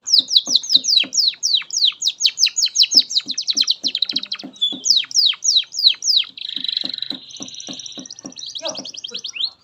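Domestic canary singing a long, continuous song. It is a fast run of repeated downward-sliding whistled notes, then a buzzy rolling passage about two-thirds in, ending in a rapid high trill.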